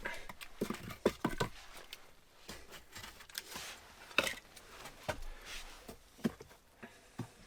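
Scattered light knocks and clicks with some rustling, irregular and fairly quiet, a few sharper knocks about a second in.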